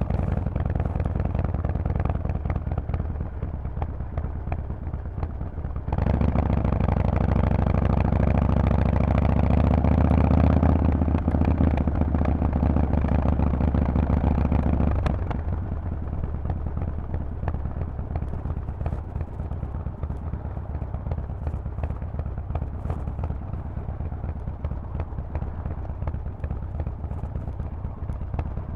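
Harley-Davidson Forty-Eight's air-cooled V-twin through a loud Vance & Hines aftermarket exhaust, heard on the move. It runs at moderate throttle, then opens up abruptly about six seconds in and pulls hard, rising slightly in pitch. About fifteen seconds in it drops back to a quieter steady cruise.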